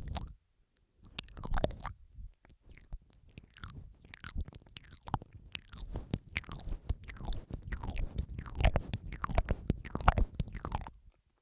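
Close-miked ASMR mouth sounds: a quick, irregular run of wet clicks, smacks and tongue noises, several layers at once, that stops just before the end.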